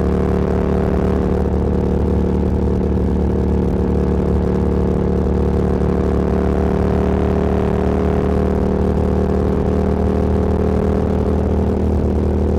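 Motorcycle engine pulling at a steady cruising speed, one even drone that holds its pitch, with road and wind rush.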